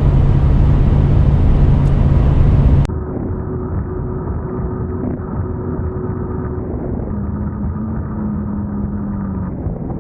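A motor vehicle's engine running steadily with a low hum. About three seconds in, the sound cuts abruptly to a quieter, muffled engine drone whose steady tone drops in pitch a little past the middle.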